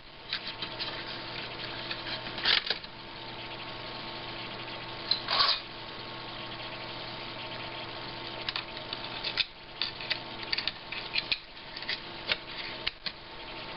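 Scattered small clicks and rattles of cables and plastic connectors being handled and plugged into an open LCD monitor, the backlight lamp leads and the display cable, over a steady faint hum. The clicks come in a few clusters, the loudest about five seconds in and a busy run near the end.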